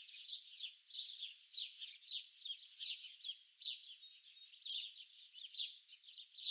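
Songbirds chirping in a dense, unbroken chorus: a quick stream of short, high chirps and twitters, several a second, overlapping one another.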